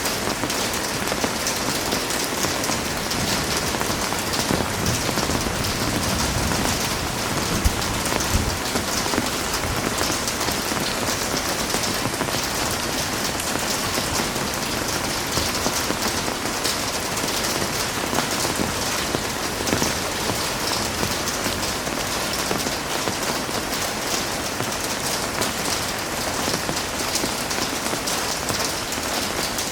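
Heavy rain falling steadily, a dense even hiss of many drops on surfaces, with a few slightly louder drop impacts about a third of the way in.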